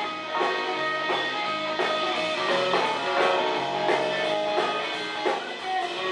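Live soul band playing an instrumental stretch between sung lines, electric guitar prominent over bass and drums with a steady beat.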